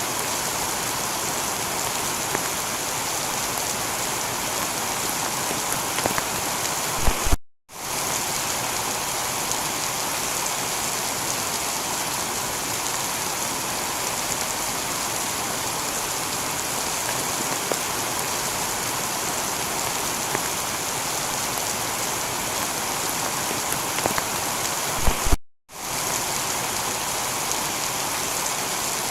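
Heavy rain falling steadily on a tiled roof. The sound briefly cuts out to near silence twice, each time just after a short loud crackle.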